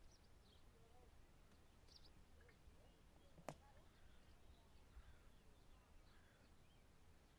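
Near silence with faint, scattered bird chirps over a low steady rumble; a single sharp click about halfway through.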